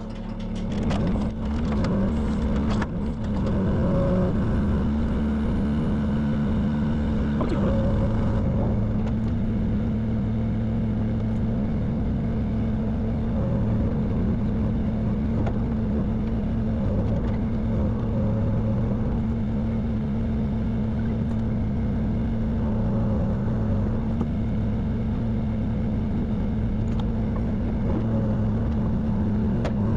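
An engine running steadily at a constant speed, with a few sharp knocks in the first three seconds.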